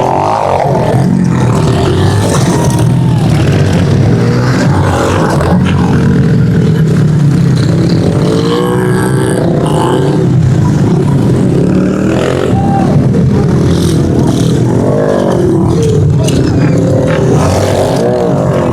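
Several small pit bike engines running together, revving up and down over and over over a steady low drone.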